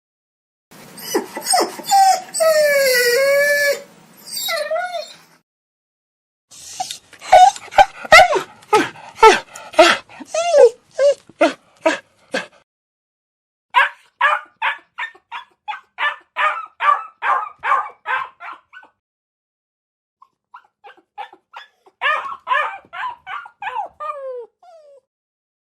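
Dogs whining and yipping in a string of separate recordings. It opens with a drawn-out whine that bends up and down over a hiss. Then come three runs of quick, high-pitched yips and barks, about three or four a second, with short silences between them and a falling whine near the end.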